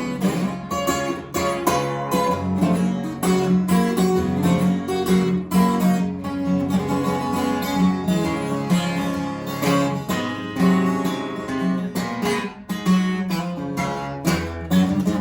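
Acoustic guitar playing an instrumental blues break: picked melody notes over a steady bass, with some strummed chords.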